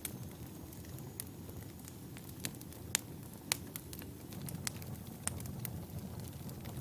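Wood fire burning in a fireplace, with a low steady flame rumble and sharp irregular crackles and pops of burning logs, two louder pops about halfway through.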